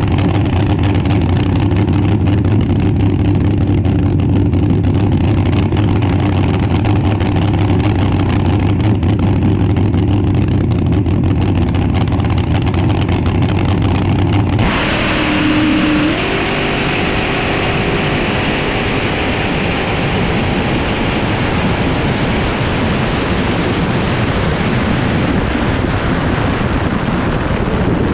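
Drag-racing engine noise. A steady engine sound runs for about fifteen seconds, then the sound changes abruptly and an engine's pitch rises in steps over a loud noisy rush.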